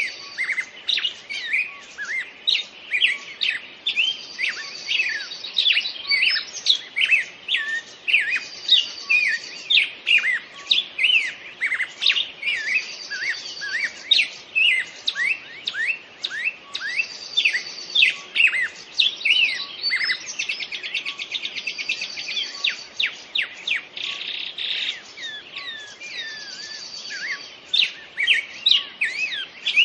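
Several songbirds chirping and singing together in a busy, overlapping chorus, with one bird repeating a short high trill every couple of seconds.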